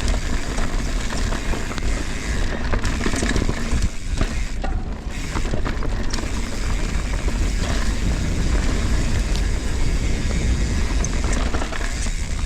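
Mountain bike riding over a rocky, rooty trail: a continuous clatter of tyres on rock and the bike rattling, with scattered sharp knocks over a strong low rumble.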